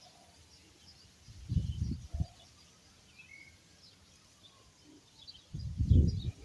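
Small birds chirping in short, scattered calls. There are two loud bursts of low rumbling noise, one about a second and a half in and one near the end.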